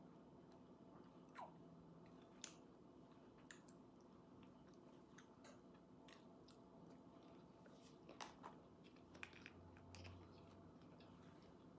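Faint chewing of food, with scattered short soft clicks, more of them in the second half.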